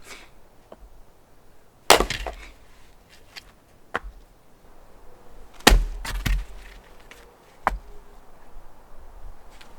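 Firewood being broken up: about five sharp wooden strikes at uneven intervals, the loudest about two seconds in and just before six seconds, some followed by a brief splintering crackle.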